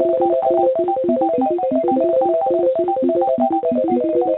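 Synthesised 'blips and blops': a fast, even stream of short electronic beeping notes hopping between a few pitches, several notes a second, heard through narrow phone-line sound.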